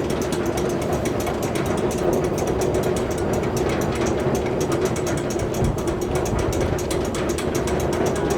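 Rapid, evenly spaced clicking over a steady hum.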